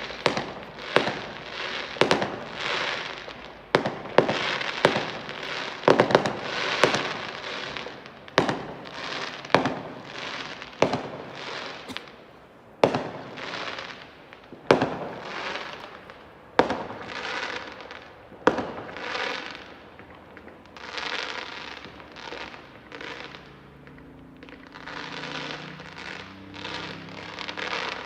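Fireworks going off in quick succession: sharp bangs about once a second, each followed by a hissing trail that fades over a second or so, coming less often in the last few seconds.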